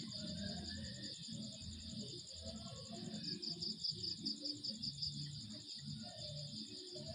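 Night insects, crickets, trilling steadily in high, rapid pulses, with one chirping louder at about five pulses a second from about three to five seconds in, over a low background rumble.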